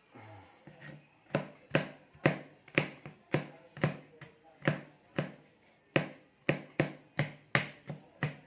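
A steady series of sharp taps or knocks, about two a second, starting about a second in.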